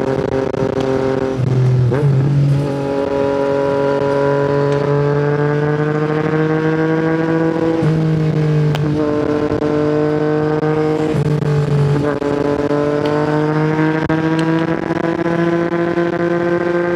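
Yamaha MT-09's three-cylinder engine through an Akrapovic exhaust, under way and pulling through the gears. The pitch climbs steadily and drops abruptly three times, about 2, 8 and 12 seconds in, as it upshifts.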